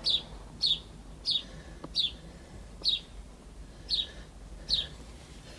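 A small bird chirping over and over: seven short, high chirps, each falling in pitch, coming a little under a second apart.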